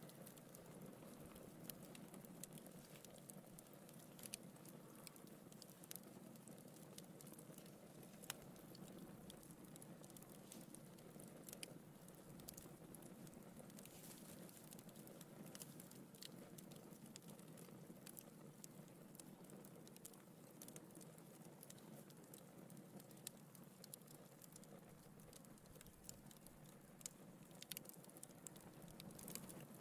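Wood fire burning in a fireplace, crackling faintly: scattered sharp pops and ticks of the burning logs over a soft, steady rush of flame.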